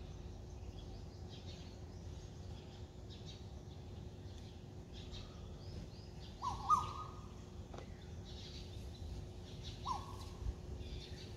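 Open-air ambience with a bird giving two short rising calls, about two-thirds of the way through and again near the end, over fainter high chirping and a low steady hum.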